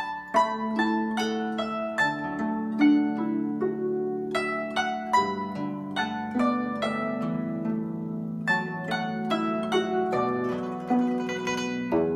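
Solo guzheng playing a slow, lyrical melody: plucked notes ringing over sustained low bass notes, with quick runs of notes at times and a fast tremolo passage near the end.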